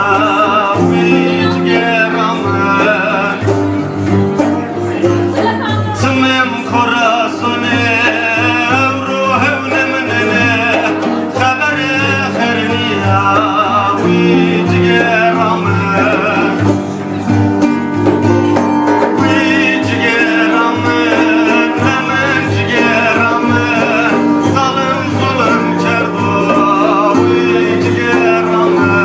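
A man singing a Turkish folk song in a wavering, richly ornamented voice over instrumental accompaniment with plucked strings.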